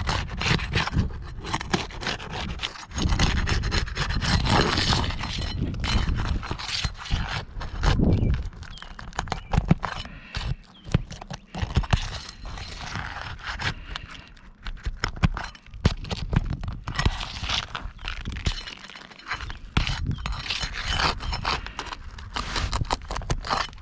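Irregular scraping, clicking and crackling on worn asphalt roof shingles as they are lifted and worked loose to get at the nails holding a torn shingle.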